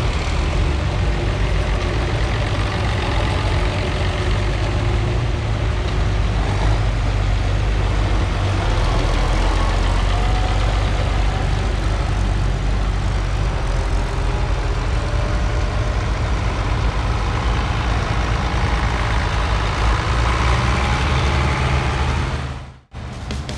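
Heavy vehicle engines running steadily with a strong low hum and road noise, cut off abruptly near the end.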